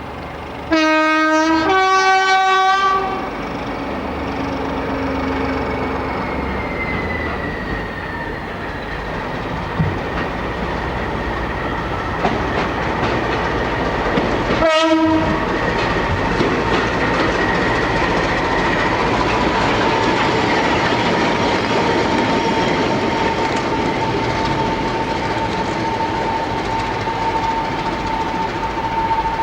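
Diesel locomotive's two-tone horn: a lower note then a higher note, each about a second long, followed by a single short blast about halfway through. Under it, the steady running noise of the train with a faint whine.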